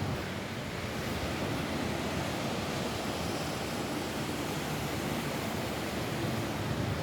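Steady rain falling on a roof: a dense, even hiss with no separate drops standing out.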